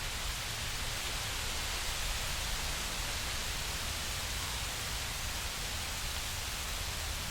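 Nature-sound ambience: a steady, even rushing hiss with a low undertone and no distinct events.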